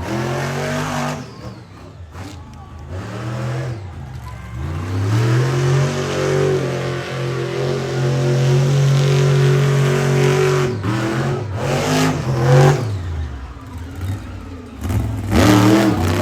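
Monster truck's V8 engine revving hard during a run: it rises and falls near the start, climbs about five seconds in and holds at high revs for about five seconds, drops off with a couple of short blips, then revs up again near the end.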